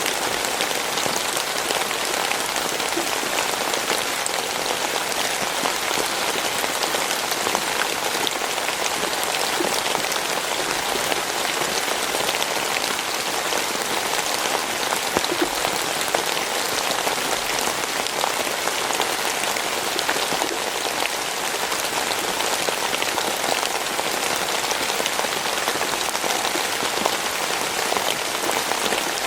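Steady rainfall, drops pattering on a surface in a dense, even hiss with fine drop ticks throughout.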